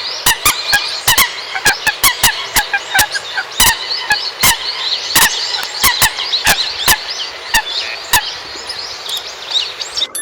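Common coots calling as a group: many sharp, short calls, irregular at roughly two a second, over a dense chorus of overlapping high chirps.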